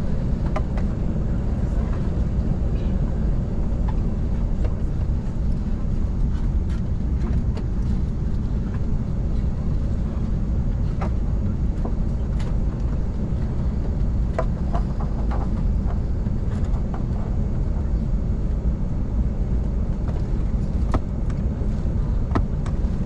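Steady low rumble of cabin noise inside an Airbus A380 at the end of its taxi to the stand, with a few faint clicks scattered through it.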